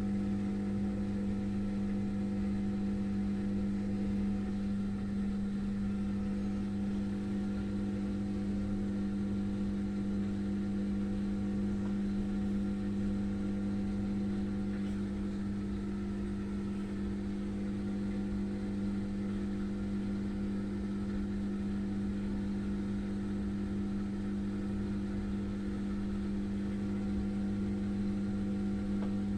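Daewoo washing machine running with a steady, even hum.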